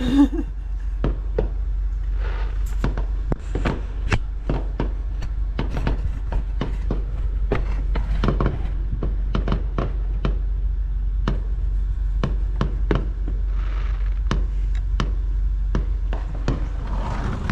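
Neighborhood consumer fireworks going off: a dense, irregular run of bangs and pops, several a second, over a steady low rumble.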